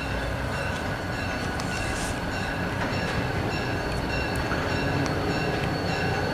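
Great Northern SD45 diesel locomotive #400 and its train rolling past with a steady low rumble, slowly growing louder. A high ringing note repeats at a steady pace over it.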